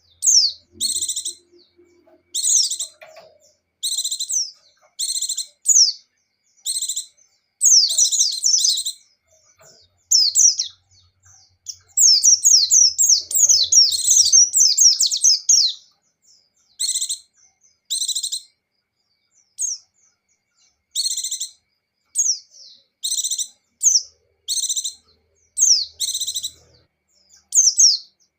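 White-eye (pleci, of the buxtoni form) singing in short, high chirping phrases about a second apart, with a longer, unbroken run of rapid song about twelve seconds in.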